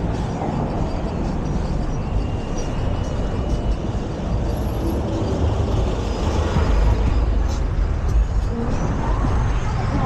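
Steady city road-traffic noise, a continuous low rumble of vehicles passing close by.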